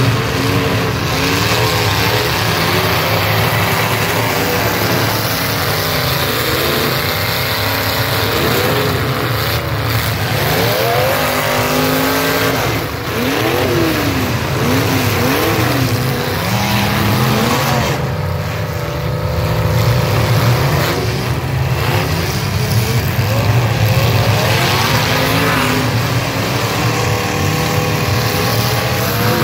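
Several demolition derby cars' engines running and revving, their pitch swinging up and down again and again, with quick up-and-down swings about halfway through.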